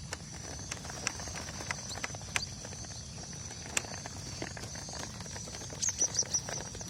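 Small birds chirping in a quick run of several short chirps about six seconds in, over a steady high-pitched hum and scattered light clicks.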